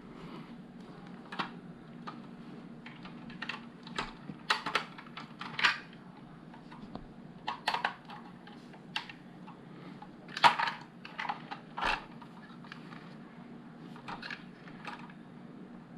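Plastic LEGO bricks clicking and rattling as pieces are handled, picked through and pressed together: scattered, irregular clicks, the sharpest about ten seconds in, over a faint steady hum.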